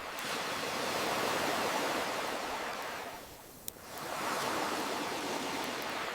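Ocean waves washing ashore in two slow swells with a lull between them, and a single sharp pop from a crackling campfire about halfway through.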